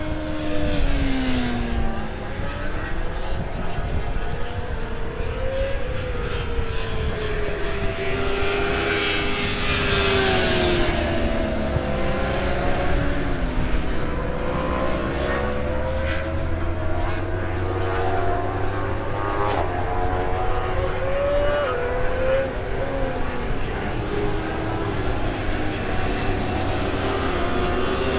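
Superbike racing motorcycle engines running hard on track, their pitch rising and falling again and again as bikes accelerate, shift gear and pass.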